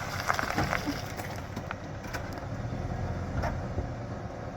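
Old GMC Z71 pickup truck's engine running at low speed off-road, a steady low hum. Scattered clicks and knocks come in the first second and again about three and a half seconds in.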